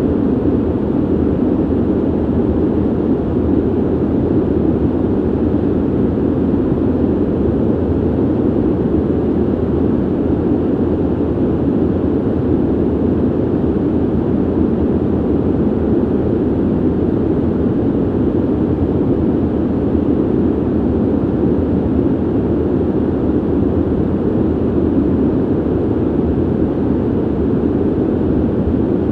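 Steady ventilation noise: an even, deep rush of air through a duct or vent, with no tones or changes.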